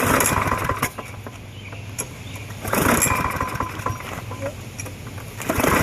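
Briggs and Stratton lawn mower engine being pull-started three times, each pull a short cranking rush that dies away without the engine catching. The engine won't start despite a cleaned carburettor, fresh oil, a new spark plug and a clean filter.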